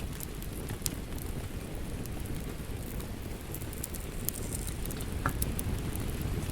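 Wood fire crackling in a fireplace: a steady low rumble of burning with scattered sharp pops and snaps, a few each second.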